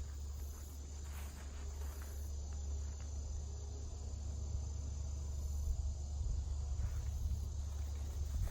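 Steady, high-pitched trilling of insects such as crickets, over a constant low rumble.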